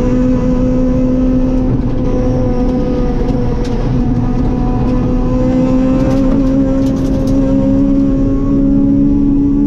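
Rally car engine heard from inside the cabin, running steadily with its pitch creeping slowly upward, over road and tyre noise, with a few faint ticks.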